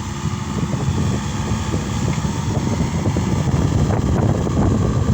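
Case SR200 skid steer loader's diesel engine running steadily under working load. The level rises slightly about a second in.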